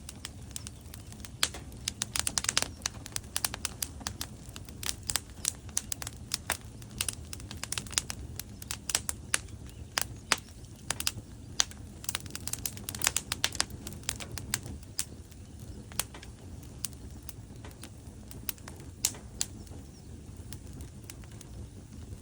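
Wood fire burning in a fireplace: logs crackling and popping with many sharp irregular snaps over a low steady rumble of the flames, busiest in the first two thirds and thinning out near the end.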